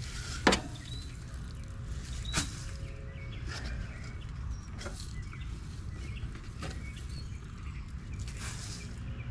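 A few sharp clicks or knocks, the loudest about half a second in, over a steady low rumble with faint bird chirps.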